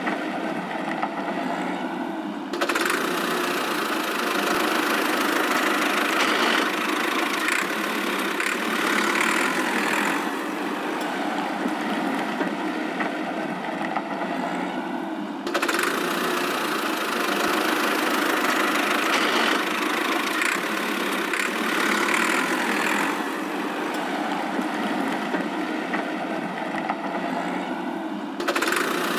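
Cartoon vehicle engine sound effect, running steadily on a loop that restarts roughly every 13 seconds, with a sudden jump in level a few seconds in and again about halfway.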